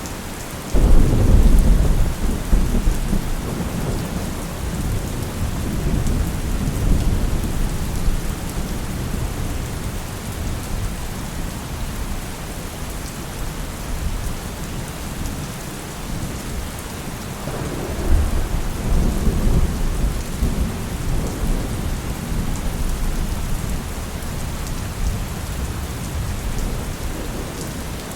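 Steady rain with thunder rolling twice: a deep rumble breaks in sharply about a second in and fades over several seconds, and a second, softer roll comes about two-thirds of the way through.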